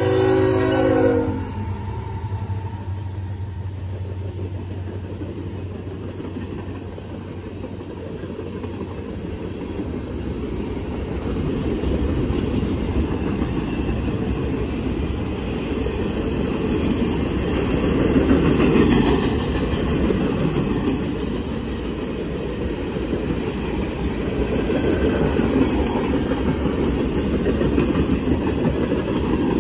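Freight train passing close by: the lead GE ES44AC locomotive's horn chord cuts off about a second in. After that comes the steady rumble and wheel-on-rail noise of freight cars rolling past, swelling louder around the middle.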